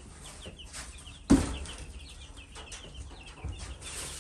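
A brood of baby chicks peeping: many short, high cheeps in quick succession. One loud thump about a second in.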